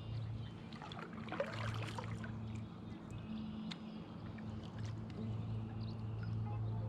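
Kayak paddle dipping and water splashing against the hull, loudest about a second in, with a low steady hum that comes and goes and a few short bird chirps.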